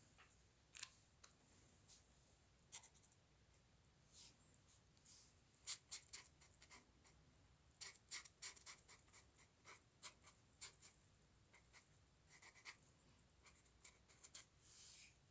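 Quiet scratching of a drawing tool on paper, hand-drawing in short irregular strokes that come in small clusters, with a longer stroke near the end.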